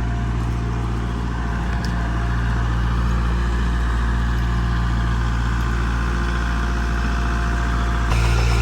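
Tractor engine running steadily while it moves a log, getting louder near the end.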